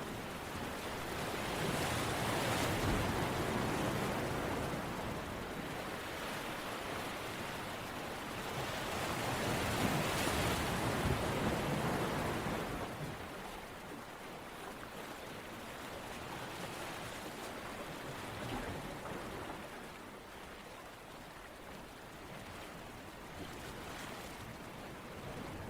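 A steady rushing of water-like noise that swells twice, a couple of seconds in and again around ten seconds, then eases off to a softer, even rush.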